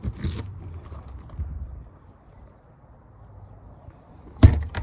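A few soft knocks and thumps over a low rumble, then a loud sharp thump about four and a half seconds in, followed by a smaller one.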